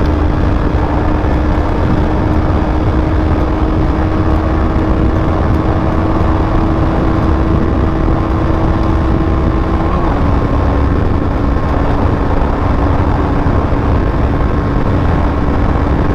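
KTM Duke 250's single-cylinder engine held at full throttle near its top speed: a steady high drone under heavy wind rush on the microphone, the pitch dipping slightly about ten seconds in. At full throttle the bike will not pull past about 130 km/h.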